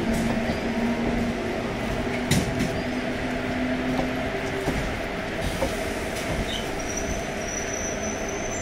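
Electric multiple-unit suburban passenger train running past along the platform: a steady rumble of wheels and running gear with a low hum, and a thin, high wheel squeal that starts near the end.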